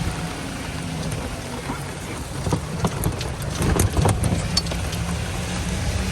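Golf cart driving along, a steady low engine-and-road rumble, with a cluster of rattling knocks and a louder low swell about three to four seconds in.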